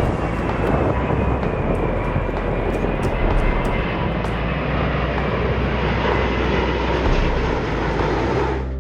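Jet airliner engines, loud and steady, with a high whine that slowly falls in pitch. The sound breaks off abruptly near the end and picks up again.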